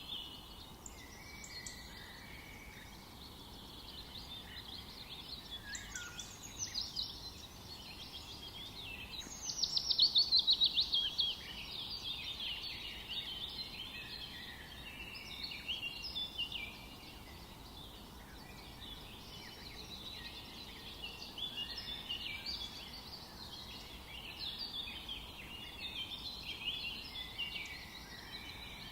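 Several songbirds singing at once in a forest dawn-chorus-like mix of overlapping chirps and phrases, with one loud, fast run of notes about ten seconds in.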